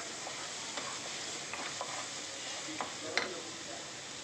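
Onion-tomato masala sizzling in oil in a pressure cooker, stirred with a wooden spatula that scrapes and knocks against the pan. The sizzle is a steady hiss under scattered clicks, with the sharpest knock about three seconds in.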